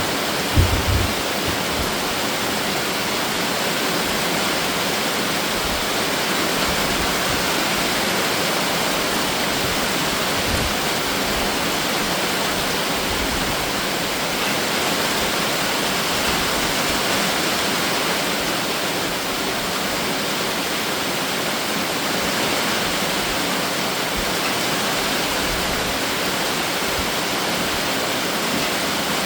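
Heavy summer rain shower falling in a steady, dense hiss, with a couple of brief dull low thumps about half a second in.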